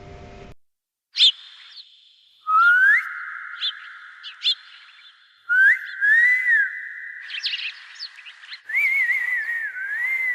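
Whistling: a run of drawn-out whistled notes that glide up and down, getting more wavering near the end, with short high chirps between them.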